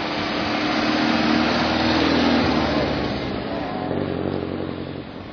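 A classic car's engine running as it drives past. It grows louder to a peak about two seconds in, then drops in pitch and fades.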